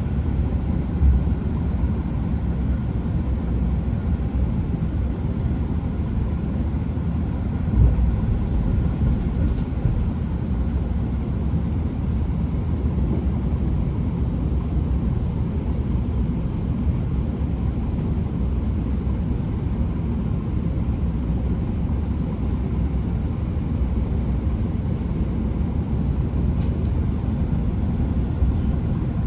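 Interior of a British Rail Class 165 diesel multiple unit under way: a steady low rumble of the underfloor diesel engines and wheels on the rails, with two low thuds, one about a second in and one about eight seconds in.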